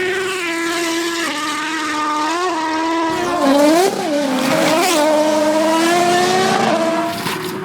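Rally car engine running hard at high revs, a steady note whose pitch dips and rises briefly a few times around the middle.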